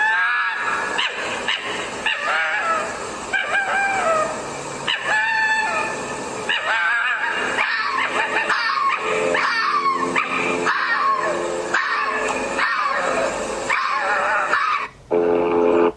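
Dogs barking and howling, many short cries rising and falling in pitch, with a brief break near the end.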